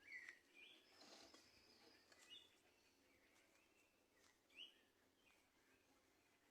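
Small birds calling faintly: short, scattered chirps, the clearest a brief rising note about four and a half seconds in.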